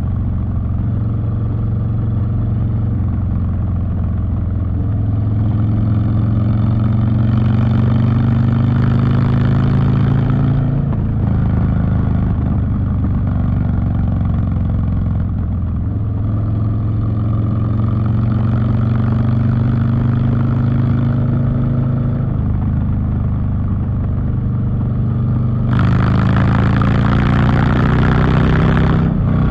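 Harley-Davidson Street Bob V-twin engine through a Two Brothers Racing 2-into-1 exhaust under way, its pitch climbing slowly in long pulls that drop back twice. Near the end it gets louder and harsher under harder throttle.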